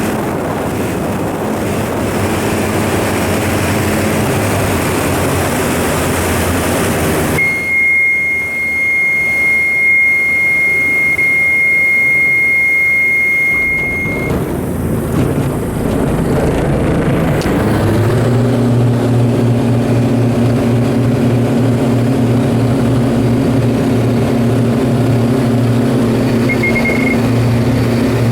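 Diamond DA42 twin-engine aircraft heard from the cockpit. About seven seconds in, the engine noise drops sharply and a steady high warning tone sounds for about seven seconds. About seventeen seconds in, the engines rise in pitch to takeoff power and then run loud and steady, with a brief high beep near the end.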